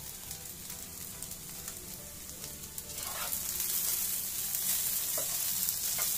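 Fried idli cubes, sliced onion and capsicum sizzling in hot oil in a frying pan while being stirred with a wooden spatula. The sizzle grows louder about three seconds in, and a few short spatula scrapes stand out.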